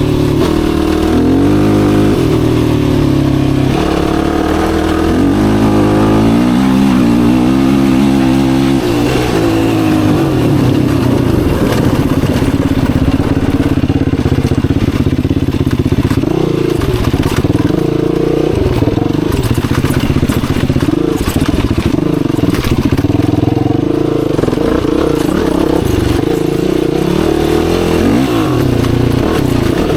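Yamaha YFZ450R quad's single-cylinder four-stroke engine running while riding, the revs climbing in steps through the first several seconds and then holding fairly steady.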